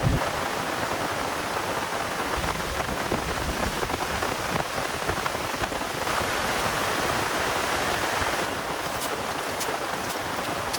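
Heavy rain falling steadily, a little louder for a couple of seconds past the middle, with a few sharp ticks near the end.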